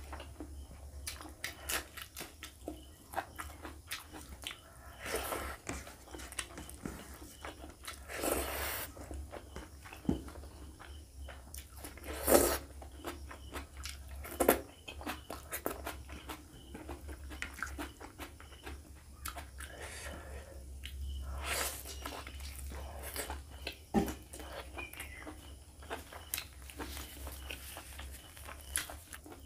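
Close-miked eating of rice and curry by hand: irregular chewing, wet lip-smacking and mouth clicks, with a few louder bites. A steady low hum runs underneath.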